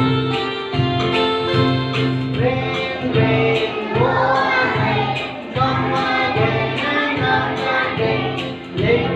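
Children's nursery-rhyme song: an instrumental backing with a steady, bouncy beat, joined by singing about two and a half seconds in.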